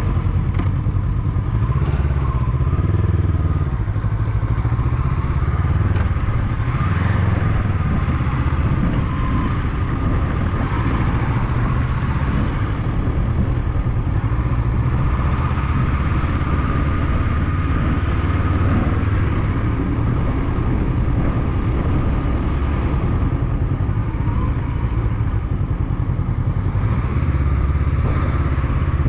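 Motorcycle engine running steadily while riding along a road, its note wavering slightly up and down.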